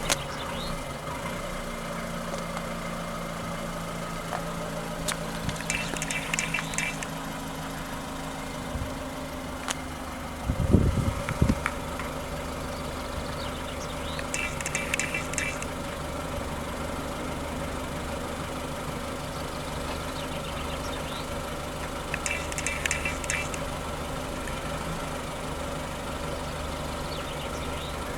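Mazda 6 diesel engine idling steadily, with a brief low thump about a third of the way in and short high-pitched chirps about every eight seconds. The car has its DPF warning light on and is smoking, and the owner is unsure whether the fault lies in the particulate filter or the engine.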